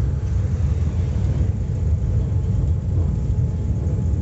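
Heritage tram running along the track, a steady low rumble.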